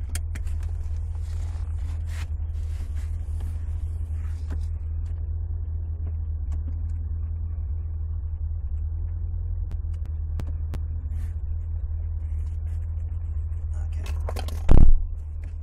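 Supercharged Chevrolet Camaro's engine running at low speed, a steady low rumble heard from inside the cabin. A single loud thump near the end.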